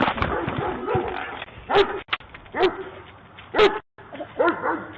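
A dog barking and yipping in short, high calls, about one a second.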